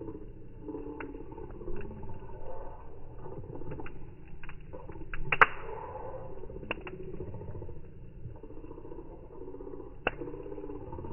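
Bonfire crackling over a low, muffled rumble, with scattered sharp pops; the loudest pop comes about five seconds in and another near the end.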